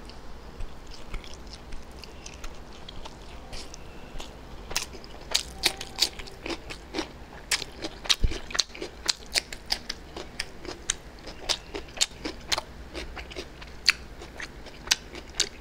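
Close-miked mouth sounds of eating chow mein and cucumber slices: chewing with many sharp, wet clicks and crunches, sparse at first and much busier from about four and a half seconds in. A single dull thump comes just past the middle.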